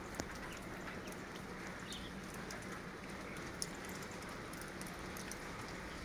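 Steady noise with scattered faint light ticks, and one short faint chirp about two seconds in.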